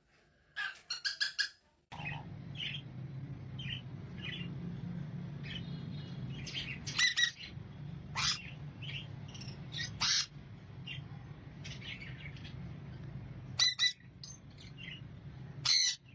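Pet parrot chirping and squawking: a quick run of calls at the start, then short chirps and squawks at irregular intervals, over a steady low hum that begins about two seconds in.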